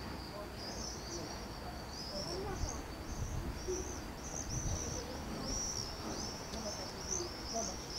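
Songbirds singing in the trees: a continuous run of short, high, arching notes.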